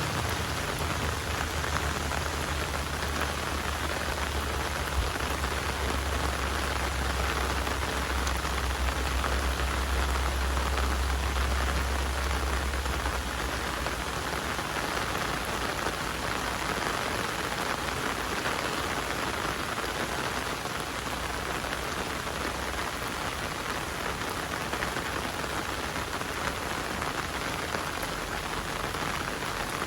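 Heavy rain falling steadily, a dense even hiss of drops on surfaces. A low rumble underneath is strong at first and fades about halfway through.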